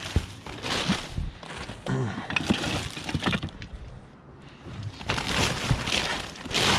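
Hard objects knocking and clattering together in irregular bursts as discarded decorations and plaques are rummaged through in a dumpster.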